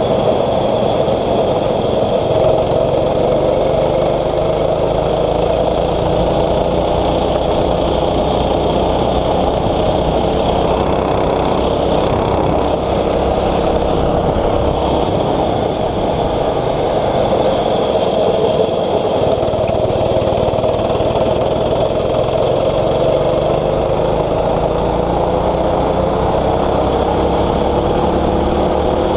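A 6.5 hp kart engine running steadily under load. Its pitch sinks slowly over the first half and climbs again near the end as the revs change through the lap.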